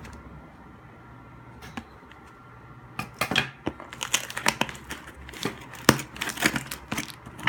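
Scissors cutting open packaging, with plastic crinkling and rustling: irregular sharp snips and crackles starting about three seconds in, after a quiet start.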